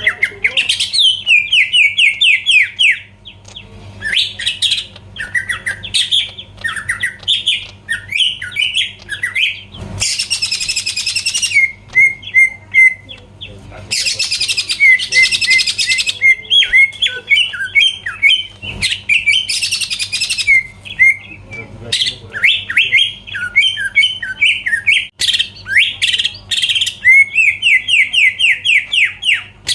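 Cucak ijo (green leafbird) singing loudly, with fast runs of repeated whistled notes sliding up and down, broken three times by harsh rasping bursts.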